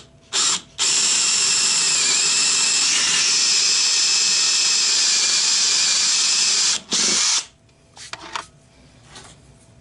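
Power drill boring a 3/8-inch hole into a block of olive wood, run in bursts: a short blip, a steady run of about six seconds whose whine dips slightly under load, then a brief final burst before it stops.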